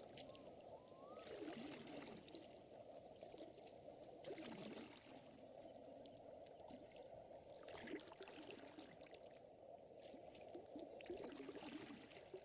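Faint lake water lapping and trickling, steady and gentle, with soft scattered crackles. A couple of short rising whistles sound within the first second.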